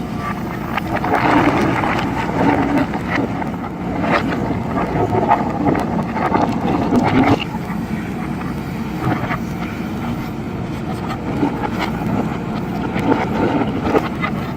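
JCB backhoe loader's diesel engine running steadily under working load, with scattered clicks and clatter of gravel and stone. It is busiest and loudest for the first several seconds, then settles a little.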